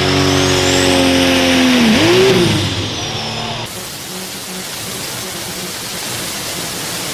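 Pulling tractor's engine running loud at high, steady revs; about two seconds in the revs fall away sharply, with one brief blip back up. Shortly after, the sound switches abruptly to a quieter, even rumble with no clear engine note.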